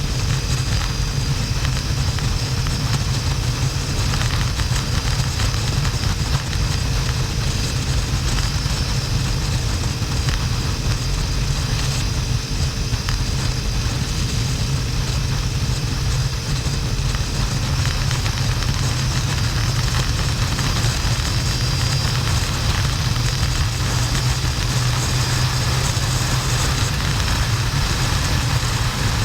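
Harley-Davidson XL1200N Sportster's 1200 cc V-twin running steadily under way, mixed with steady wind noise.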